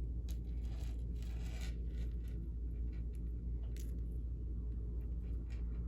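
Short scratchy rustles of small craft or packing materials being handled, mostly in the first couple of seconds, then a few faint clicks, over a steady low background hum.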